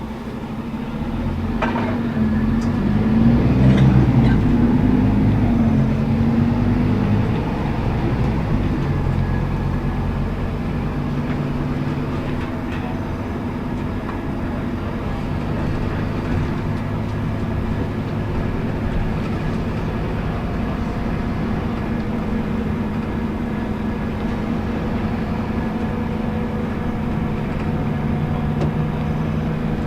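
Scania K280UB articulated city bus with a ZF automatic gearbox, heard from inside the bus: the diesel engine revs up as the bus accelerates, its pitch rising and shifting a few seconds in. It then settles to a steady drone at cruising speed.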